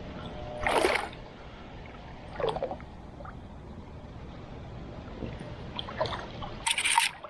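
Short splashes of water from a cast net being thrown and hauled from a canoe: three brief bursts, the loudest near the end, over steady wind noise.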